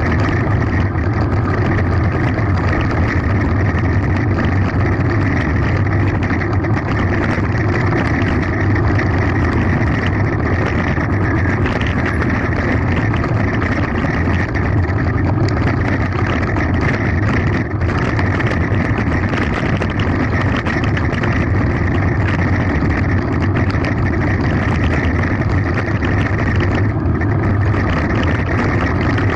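Continuous rumble and rattle of a mountain bike running fast downhill on a gravel forest road, with wind rushing over the camera's microphone.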